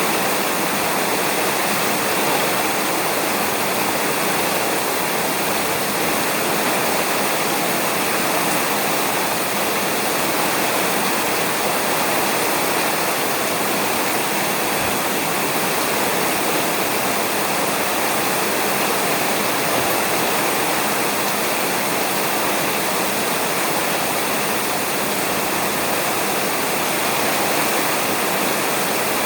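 Steady rain falling on a roof, a dense, even hiss with no thunder.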